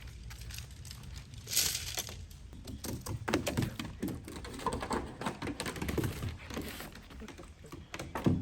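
A run of irregular light clicks and knocks with some rustling, the sound of objects being handled, with a sharper knock near the end.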